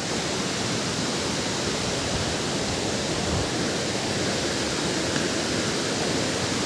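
Waterfall rushing steadily: an even, unbroken hiss across all pitches.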